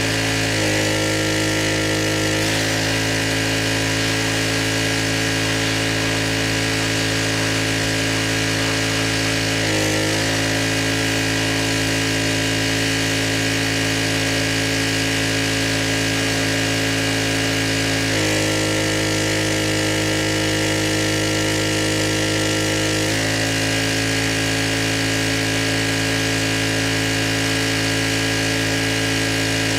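Pressure washer running steadily at high volume. Its tone changes three times: for about two seconds near the start, briefly in the middle, and for about five seconds later on.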